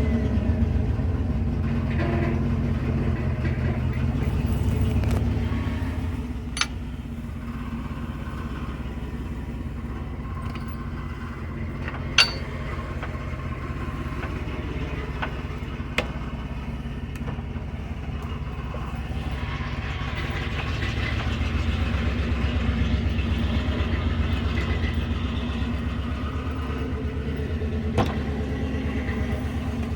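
Truck engine running steadily just after starting, getting a little louder and fuller about two-thirds of the way through. A few sharp clicks come over it.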